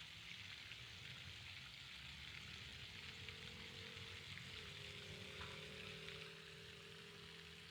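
Faint steady hiss of outdoor ambience with a low rumble underneath. A faint droning hum comes in about two and a half seconds in.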